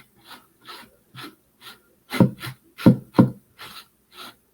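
Paintbrush strokes scrubbing and dabbing paint onto a wooden surface: a quick run of short scratchy strokes, two or three a second, with a few louder ones in the middle.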